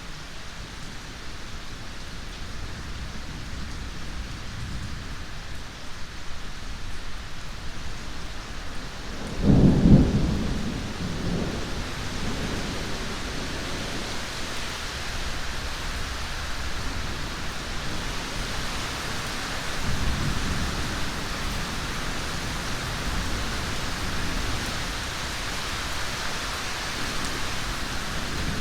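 Steady heavy rain with thunder: a close clap about nine and a half seconds in that rumbles off over a few seconds, and a softer roll of thunder about twenty seconds in. The rain grows heavier after the first clap.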